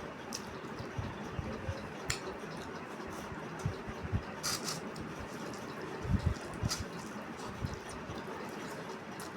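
Eating sounds of rice with potato-tomato curry: scattered wet clicks, squelches and soft thumps of chewing and mouthfuls, over a steady hiss.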